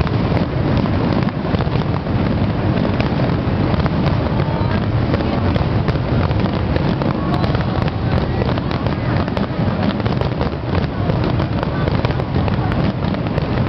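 Fireworks going off in a dense, continuous barrage of bangs and crackles with no let-up, as in the climax of a fireworks display.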